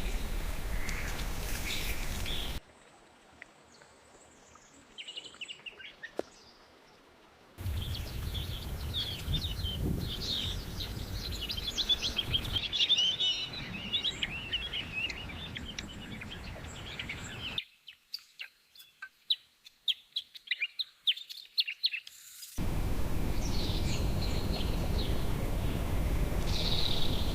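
Small birds chirping and calling, with many short high chirps, in several recordings spliced together. Stretches with a steady background noise under the birds alternate abruptly with quieter stretches of sparse, sharp chirps.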